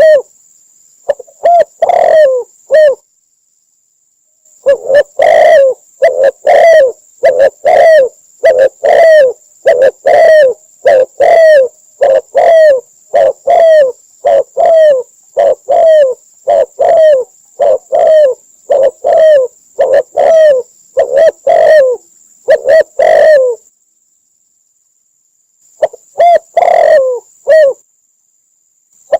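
Spotted dove cooing: a long, rapid run of short, low coos, breaking off twice for a second or so. A faint steady high-pitched tone runs under it.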